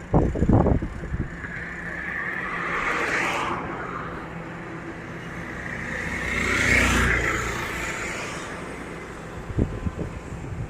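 Tractor engines running, the sound swelling and easing twice as a tractor labours or passes, with brief loud low rumbling bursts at the start and again near the end.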